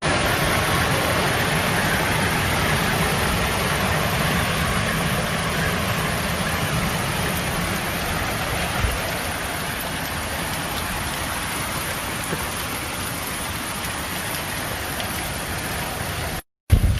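Hail pelting down in a heavy storm: a dense, steady clatter and hiss of stones striking surfaces, which stops abruptly just before the end.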